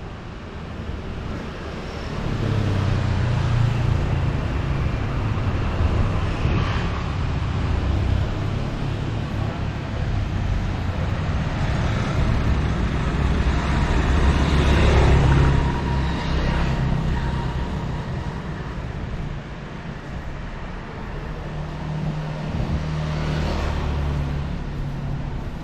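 Street traffic: engines running low, with several vehicles passing one after another, the loudest a little past halfway.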